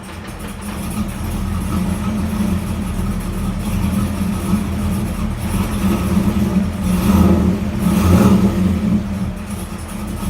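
1994 Camaro's LT1 small-block V8 running steadily on its first start after being freshly installed, with a couple of brief swells in level about seven and eight seconds in.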